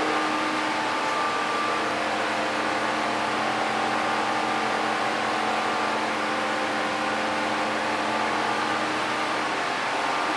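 Fans running steadily: a constant whirring hum with a few faint steady tones in it.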